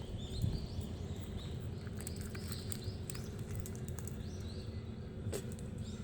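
Small birds chirping repeatedly in short, quick calls over a steady low background rumble, with scattered sharp clicks.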